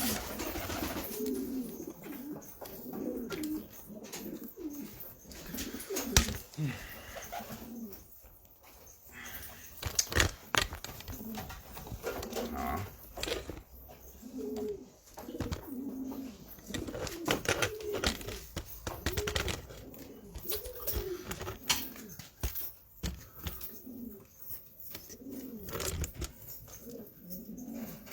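Domestic pigeons cooing over and over, with several birds calling in overlapping low rolling coos, among scattered sharp clicks and knocks.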